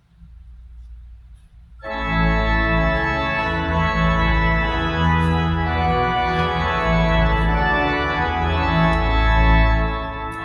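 Church organ starts playing loud, sustained full chords about two seconds in, after a faint low room hum.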